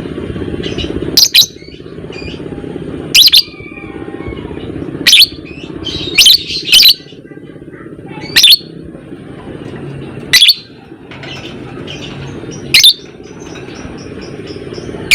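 Lovebird calling, with loud, sharp shrieks about every two seconds, several in quick pairs, between softer chattering. A steady low hum runs underneath.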